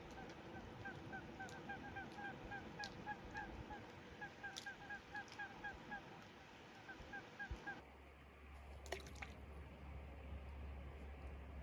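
A flock of waterbirds calling in rapid short notes, several a second. About eight seconds in the calls stop abruptly and a steady low hum takes over, with a few faint clicks.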